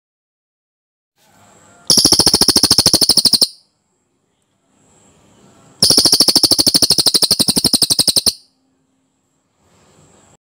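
A cililin songbird singing two dense, rapid rolling trills of fast repeated high notes, the first about two seconds in and lasting a second and a half, the second starting about six seconds in and lasting about two and a half seconds. Soft hiss comes before each trill.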